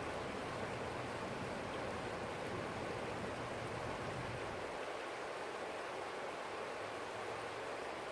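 Forest stream flowing steadily, an even rushing of water. A low rumble underneath stops about halfway through.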